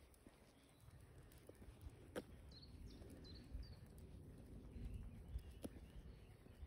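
Quiet outdoor walk: a small songbird gives three short high chirps a couple of seconds in, over a low rumble with two sharp clicks.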